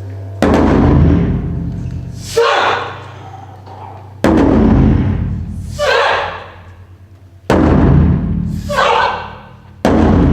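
Taiko drums struck in loud sudden passages about every three seconds, each dying away, with a short shouted call after each passage.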